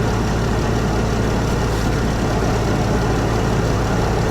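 2018 Dodge Grand Caravan's 3.6-litre V6 idling steadily. It is being run up to full temperature after a thermostat replacement.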